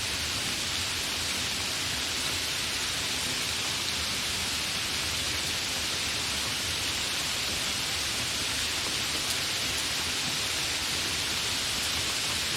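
Fairly heavy rain falling steadily, a continuous even hiss with no thunder.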